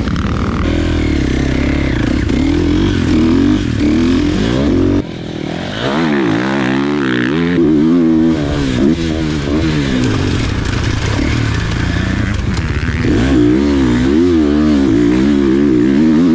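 Motocross dirt bike engine at race pace, its revs rising and falling over and over as the rider opens and closes the throttle around the track. The sound jumps abruptly about five seconds in and again a couple of seconds later.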